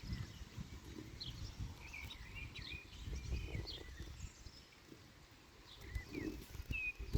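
Small birds chirping in short calls over an uneven low rumbling noise that rises and falls.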